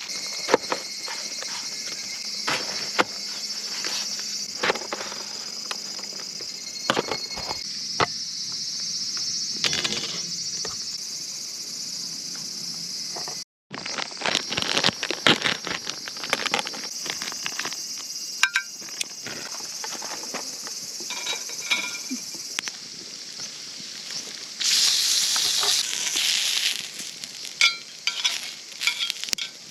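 Insects droning steadily in the forest, with scattered sharp crackles and clicks over them. The sound breaks off to silence for a moment about halfway through.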